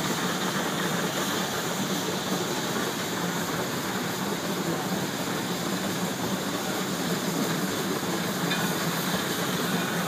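Narrow-gauge steam train running along the track, heard from an open-sided passenger car: a steady rolling noise of the cars on the rails, with a steam hiss mixed in.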